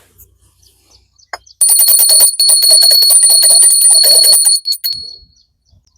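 Small hand-held puja bell (ghanti) rung rapidly for about three seconds, starting about a second and a half in, then dying away. It is rung while the food offering (bhog) is made to the deity.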